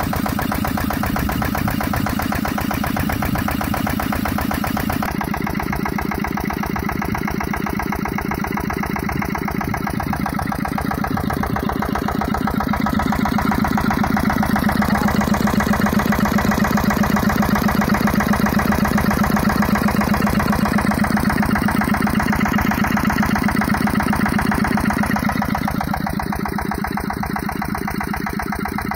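Kirloskar diesel engine running steadily, its firing beat even, a little louder through the middle.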